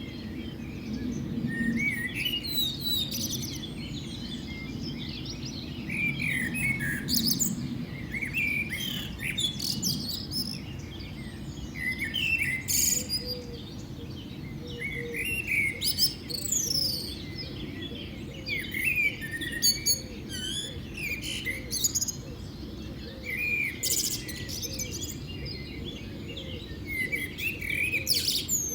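Small birds chirping and singing, many short calls overlapping continuously, over a steady low background rumble.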